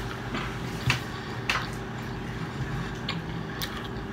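A person chewing a mouthful of pizza with mouth closed: soft wet squishing with a few small clicks, over a low steady hum.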